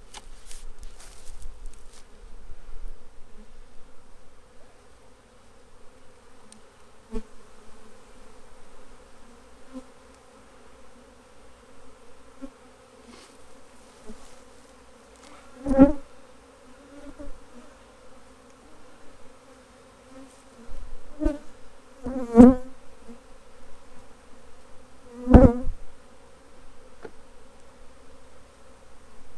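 Honeybee swarm buzzing in a steady hum, with four brief, much louder buzzes as bees pass close, the loudest about two-thirds of the way through.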